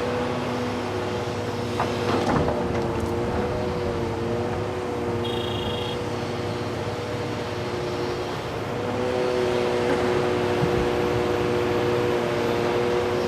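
Heavy diesel earthmoving machinery (excavators and articulated haul trucks) running steadily, the engine note dipping slightly and then building again about two-thirds of the way through. A couple of knocks come about two seconds in, and a single short high beep a little after five seconds.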